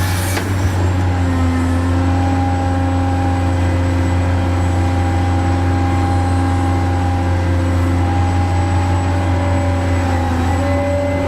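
A motor running steadily: a low hum with several steady tones above it that shift slightly in pitch now and then.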